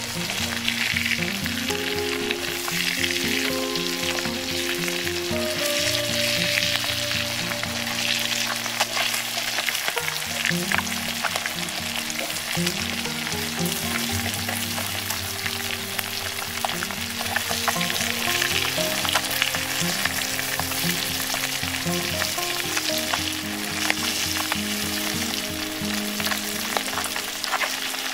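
Small whole fish frying in hot oil in a clay pan: a steady sizzle with fine crackles and pops throughout.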